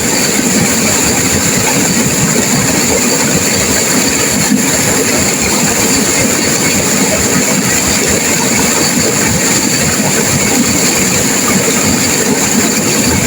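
Turbulent river water crashing and rushing over rocks, a steady, loud, unbroken rush.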